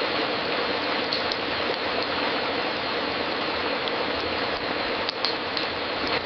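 Fireplace crackling: scattered sharp pops and snaps over a steady rushing hiss, with a few pops about a second in and a small cluster near the end.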